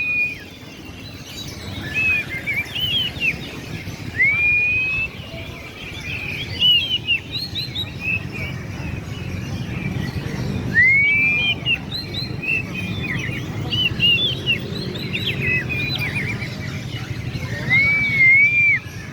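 Several caged songbirds singing: long rising and arching whistles mixed with quick chirped phrases, over a low, steady murmur of a crowd.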